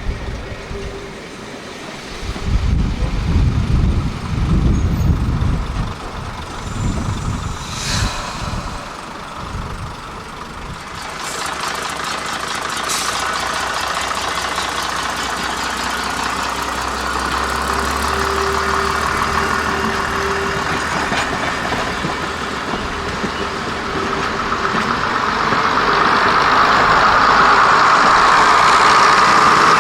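A train's engine running steadily at the station, growing louder over the last few seconds. Wind buffets the microphone in the first ten seconds.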